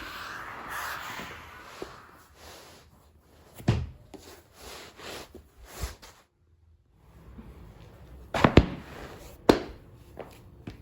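A soft hiss in the first two seconds, then scattered sharp knocks and clatters of things being handled, the loudest a quick pair about eight and a half seconds in and another single knock a second later.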